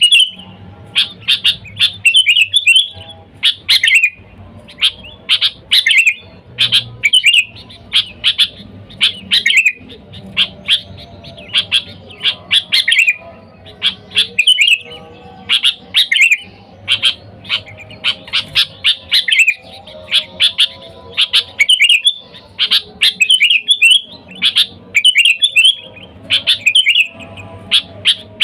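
Sooty-headed bulbul (kutilang) calling over and over: short, loud chattering phrases, about one a second, with brief pauses between.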